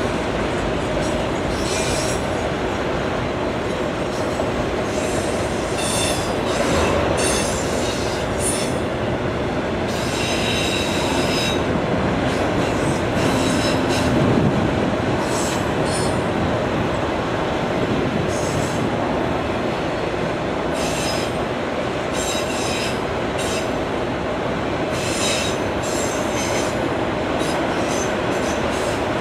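Train cars rolling past with a continuous rumble. The wheels give repeated short, high-pitched squeals every couple of seconds.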